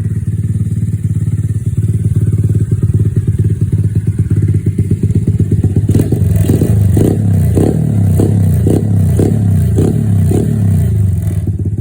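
Honda Monkey minibike engine running steadily, then from about halfway through revved in a run of short, regular blips, about two a second, which stop near the end as it settles back.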